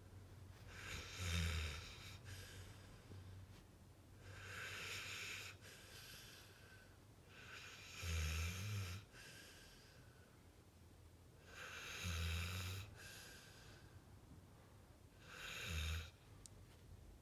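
Pit bull snoring in its sleep: slow, regular breaths about every three to four seconds, most of them with a low snoring rumble and one just an airy breath.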